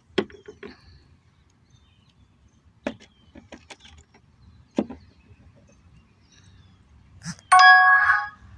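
A few sharp taps of a bantam chicken's beak pecking at a cracked egg, spaced a second or two apart. Near the end comes a loud, pitched squeal lasting under a second.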